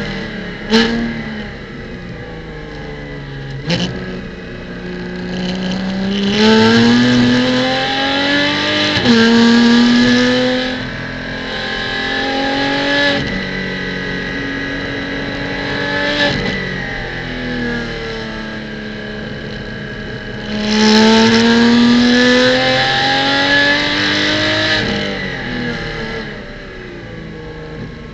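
Porsche Cayman GT4 Clubsport's flat-six engine heard from inside the car on track, repeatedly accelerating with rising pitch and dropping back on shifts and lifts, loudest in two full-throttle stretches. Two sharp clicks come in the first few seconds.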